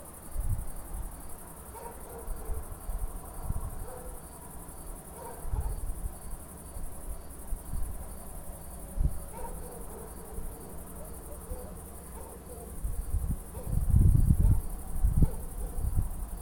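Crickets chirping steadily, one pulsing about twice a second, under irregular low rumbles, the loudest about three-quarters of the way in.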